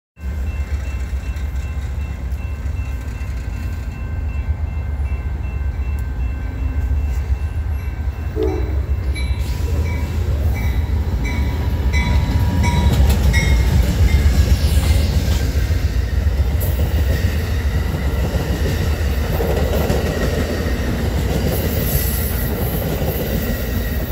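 A train rolling past close by: a steady, loud low rumble of the locomotive and cars on the rails, swelling toward the middle, with a run of regular ticks about twice a second midway.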